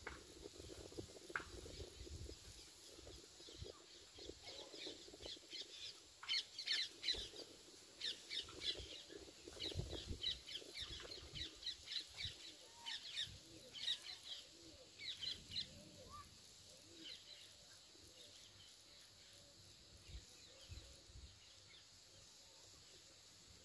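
Faint bird chirping: a run of quick, high notes, several a second, that grows busier about six seconds in and thins out after about sixteen seconds.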